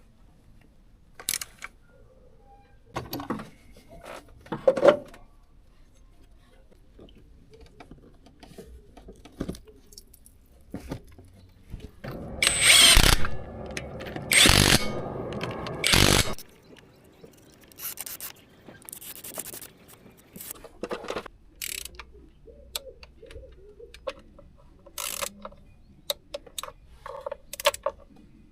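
A hand-held power tool runs in about three short bursts around the middle, amid scattered clicks and knocks of tool work.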